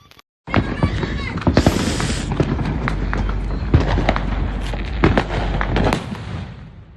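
Fireworks going off in a dense barrage of many rapid, sharp cracks and pops, starting suddenly about half a second in and dying down near the end.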